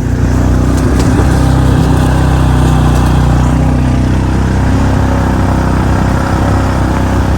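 A vehicle engine running at a steady speed, loud and even throughout.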